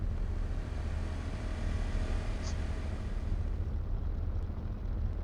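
Steady low vehicle rumble, with no clear change or event.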